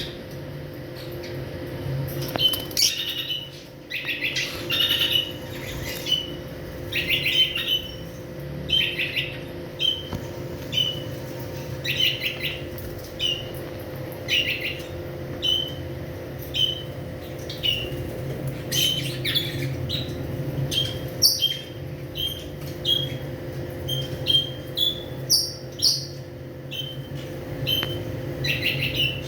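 Lovebirds chirping: short high chirps about once a second, mixed with longer, harsher calls, over a steady low hum.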